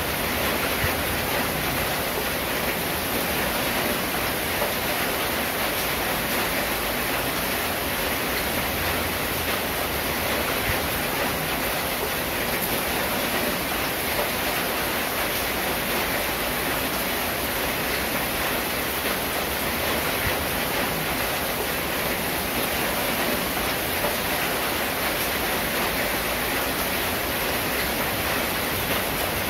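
Steady rain falling on a corrugated zinc roof, an even, unbroken hiss with no thunder.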